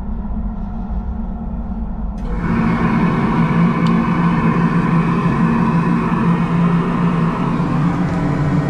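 SNCB AM96 electric multiple unit running, heard from on board: a steady low hum. About two seconds in, a rushing noise suddenly comes in and stays, and the sound gets louder.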